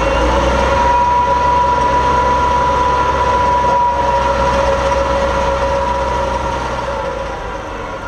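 Light super stock pulling tractor's diesel engine running flat out under load, a deep rumble with a steady high whine on top. It fades slightly near the end.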